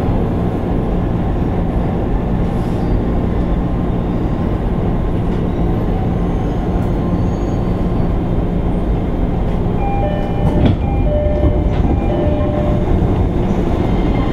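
Running sound inside a JR East 205 series 600 subseries electric motor car (MoHa 204-604): a steady rumble of wheels on rail and traction equipment with a low hum, and a few short high-pitched tones and a knock from about ten seconds in.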